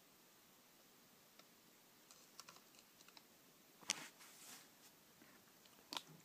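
Near silence broken by scattered faint clicks, then two sharper clicks, about four and about six seconds in.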